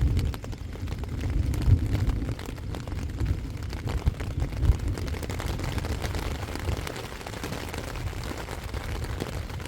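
Thunderstorm wind buffeting the microphone in uneven low rumbling gusts, loudest about two seconds in and again around five seconds, with a faint hiss of rain and storm noise behind it.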